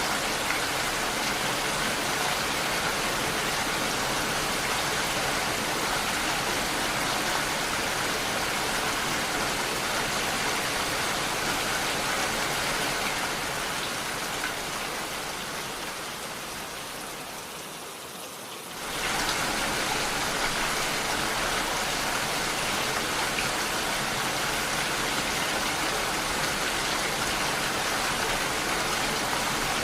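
Steady rain falling, an even wash of patter. Past the middle it fades away over a few seconds, then cuts back in suddenly at full level.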